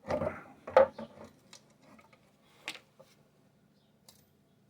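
Small metal parts clicking and clattering as they are handled, with a cluster of knocks in the first second or so, a sharper click near three seconds and a faint tick near the end.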